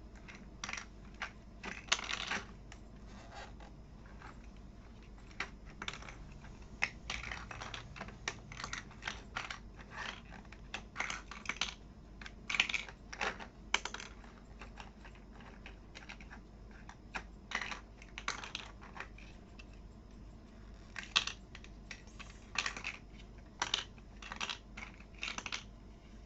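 Small plastic toy building bricks clicking and clattering at irregular intervals, in short clusters, as they are picked over and snapped together by hand.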